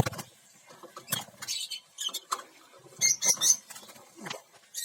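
Lovebirds giving short, high, squeaky chirps in scattered clusters.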